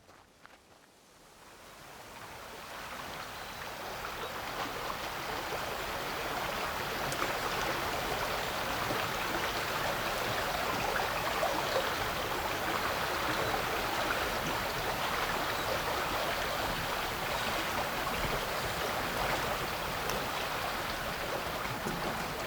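Chalk stream water flowing steadily, fading in from near silence over the first few seconds and then holding level.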